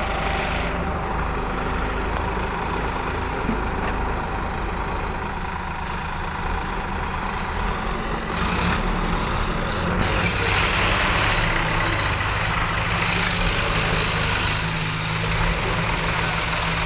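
Heavy diesel engine running steadily, growing louder and harsher about ten seconds in.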